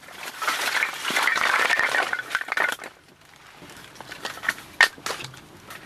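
Firewood being handled: a loud crinkling, crunching rustle for about three seconds as another bundle of firewood is opened, then a few sharp knocks of wood.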